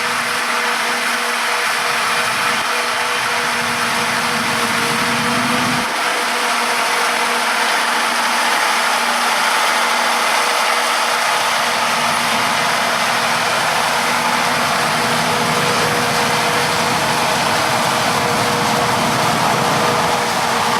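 Farm tractor engine and peanut harvesting machinery running steadily, a constant mechanical drone with a steady whine; a lower hum drops out about six seconds in.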